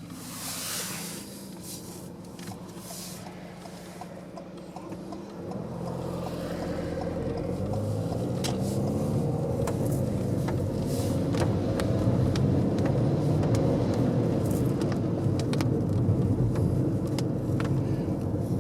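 Car engine and road noise heard from inside the cabin, the engine note rising and growing louder about six seconds in as the car accelerates, then holding steady.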